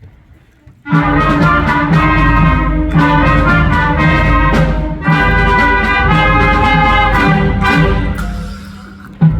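Brass-led band music that comes in suddenly about a second in, eases off a little before the end, then comes back loud.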